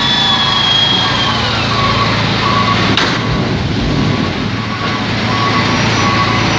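Backup alarm of a reversing heavy vehicle beeping about once every two-thirds of a second, pausing briefly midway, over a diesel engine running steadily. A high whine slides down in pitch in the first two seconds, and a sharp knock comes about three seconds in.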